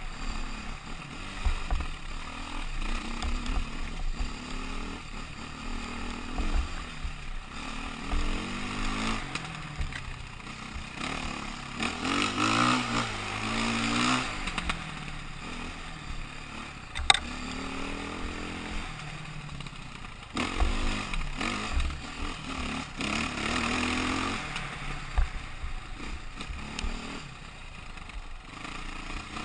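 KTM motorcycle engine running on the move, its pitch rising and falling repeatedly as the rider accelerates and eases off, with irregular low rumbling from wind on the microphone. A single sharp click partway through.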